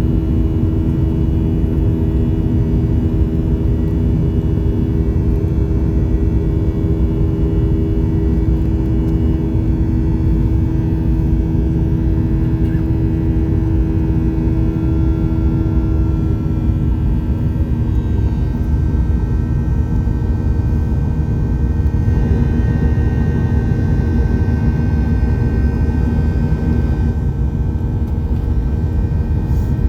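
Boeing 737-800 airliner in flight, its CFM56-7B jet engines and airflow giving a loud, steady rumble with several humming engine tones. About halfway through, the engine tones shift in pitch, a change in engine power.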